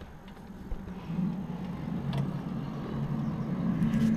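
A low, droning groan from outside, heard through an open window. It swells in about a second in and grows louder, its held tones shifting in pitch in steps. It is the kind of 'strange sound from the sky', trumpet-like, that the uploader reports hearing repeatedly.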